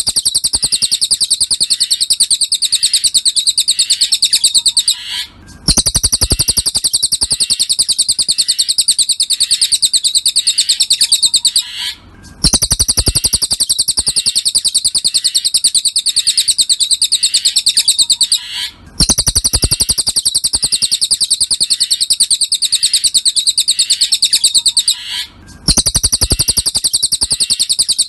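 Recorded cililin birdsong: a fast, high trill held for about six seconds at a time, repeated with a short break roughly every six and a half seconds.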